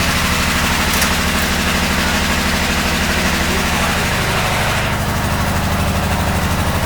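Engine running steadily at idle with an even low pulsing beat; a hiss above it drops away about five seconds in.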